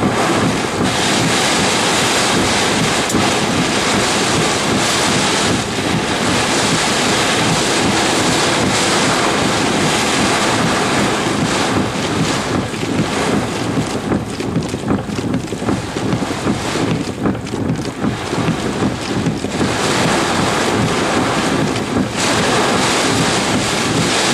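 Thunderstorm winds buffeting the microphone with heavy rain: a loud, steady roar of noise that gusts unevenly for a stretch in the middle.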